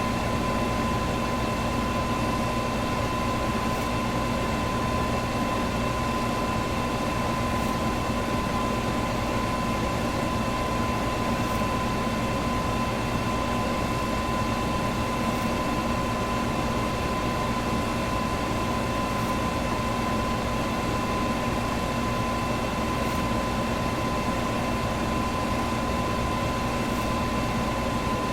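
Electric fan running steadily: an even whoosh of moving air with a constant motor hum. A faint tick sounds about every four seconds.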